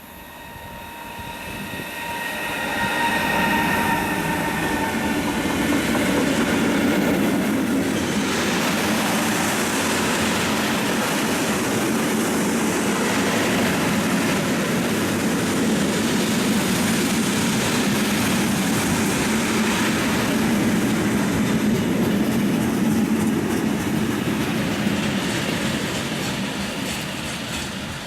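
A train passing close by on the line. A few high steady tones sound as it comes in, then the wheels rumble and rattle on the rails, loud and even for over twenty seconds, easing off near the end.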